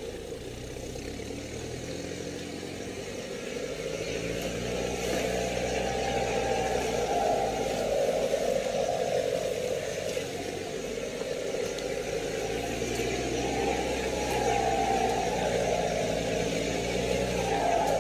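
Off-road 4x4 engine running at low speed, its revs gently rising and falling as it crawls along a rough dirt track.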